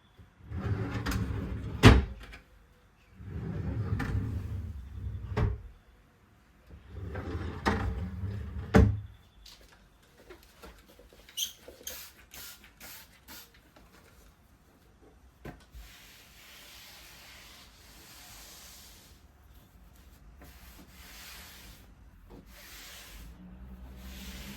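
Wardrobe being opened and shut: three sliding rubs of about two seconds each, each ending in a sharp knock. Then lighter scattered clicks, and a soft hiss that comes and goes near the end.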